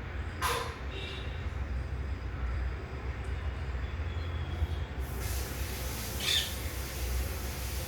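A steady low rumble with a couple of short bird calls over it, one about half a second in and a higher one about six seconds in.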